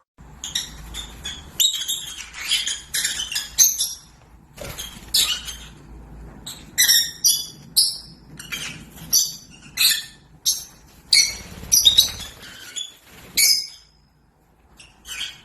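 A pet parrot giving a long run of short, high chirps and squawks, one after another at irregular spacing, falling quiet for a moment near the end.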